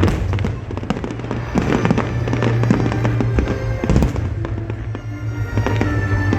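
Fireworks bursting and crackling in quick, dense succession, with music playing under them.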